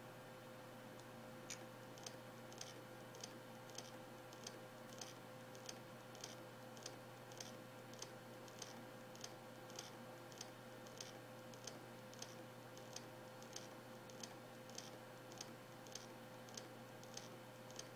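Samsung Spinpoint F3 1TB hard drive (HD103SJ) clicking in a steady rhythm, a little under two clicks a second, starting about a second and a half in, over a faint steady hum. The drive is faulty, dead on arrival.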